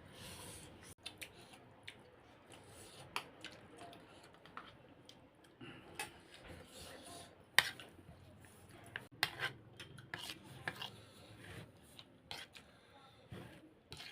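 Scattered clicks and scrapes of eating utensils against a noodle bowl while spicy ramen is being eaten.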